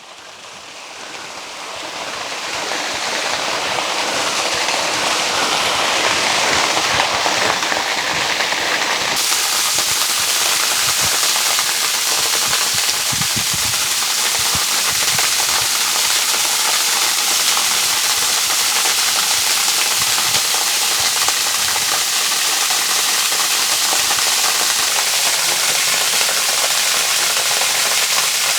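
Waterfall: a steady rush of falling water that swells over the first few seconds as it comes closer and grows brighter about nine seconds in.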